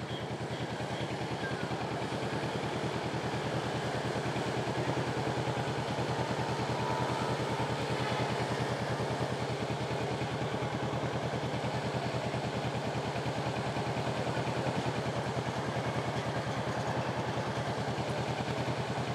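Kawasaki Ninja motorcycle engine running steadily at low revs, a rapid even pulse with no revving, as the bike crawls through traffic. The rider believes it is overheating from riding this slowly.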